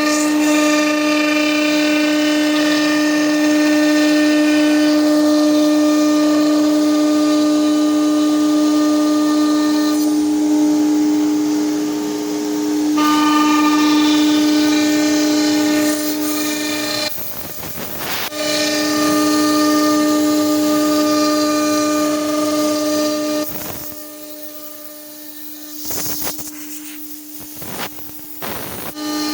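CNC machine running with a steady high-pitched whine. The whine drops out briefly about two-thirds through and comes and goes with short bursts of noise near the end.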